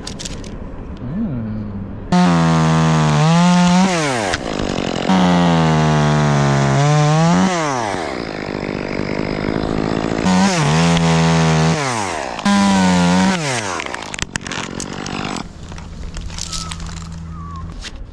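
Gas chainsaw up in the tree, taken from idle to full throttle four times for a few seconds each, dropping back to idle between runs, as it cuts off limbs.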